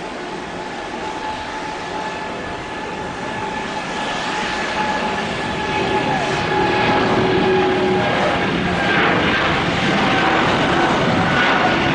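Boeing 777-300ER's twin GE90 turbofans running, a jet rush with steady whining tones that grows steadily louder.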